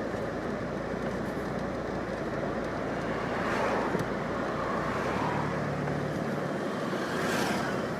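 Road traffic: a steady rumble of car engines and tyres, with two vehicles passing close, about three and a half seconds in and again near the end.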